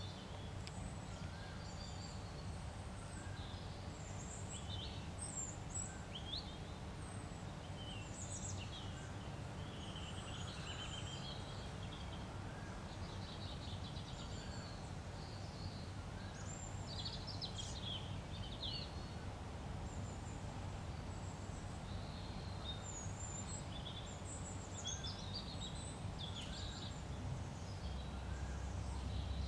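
Birds chirping in the background: scattered short, high calls over a steady low hum of ambient noise.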